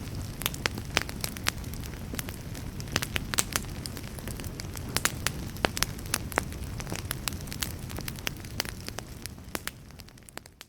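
Wood fire burning in a fireplace, crackling with frequent irregular sharp pops and snaps over a low steady rumble of flame. It fades out near the end.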